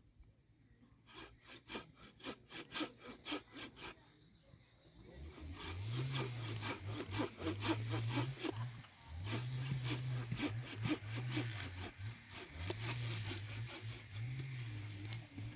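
Wood being sawn by hand with rhythmic back-and-forth strokes and the rasp of the teeth cutting. It is quieter for the first few seconds, then louder and steadier from about five seconds in.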